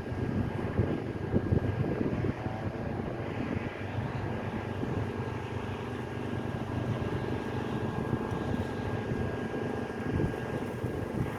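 An engine running steadily, with gusts of wind on the microphone in the first couple of seconds.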